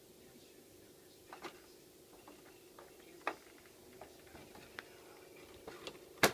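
Hitachi VIP202P CED videodisc player's mechanism clicking and ticking irregularly over a faint steady hum, with a few small clicks early on and the loudest pair of clicks near the end.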